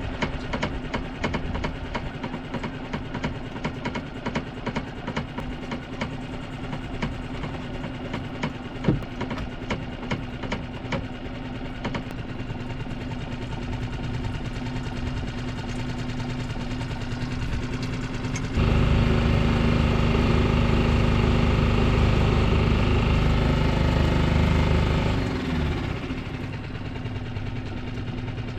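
Boat engine, most likely the sailboat's gasoline outboard, running steadily. It grows louder for several seconds in the second half, as if throttled up, then settles back.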